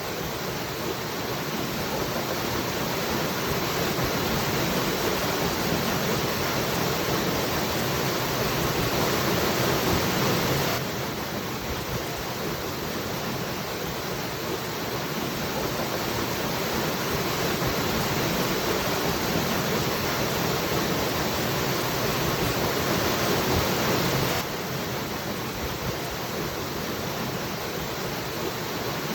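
Waterfall rushing as a steady, even roar of water noise. The level swells slowly and then drops suddenly about eleven seconds in, and again a few seconds before the end.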